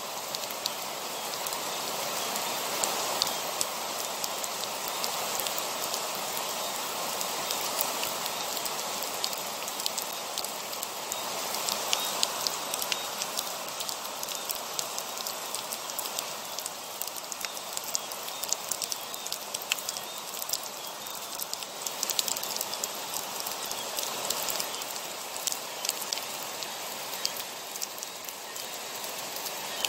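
Heavy rain falling steadily: a dense, even hiss with many small, sharp drop impacts scattered through it.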